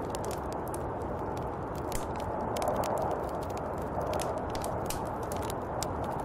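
Snowstorm wind blowing steadily, with many scattered sharp ticks and crackles over it.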